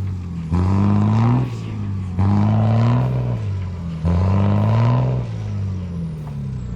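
Unimog truck's diesel engine revving hard in three surges about two seconds apart, each rising in pitch and then dropping back, as the truck is worked in soft sand dunes.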